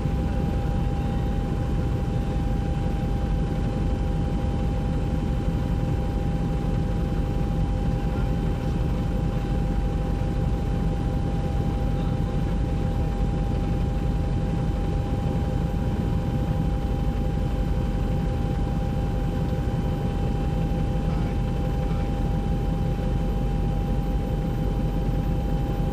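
Helicopter engine and rotor noise heard from inside the cabin: a steady, unbroken drone with a constant whine on top.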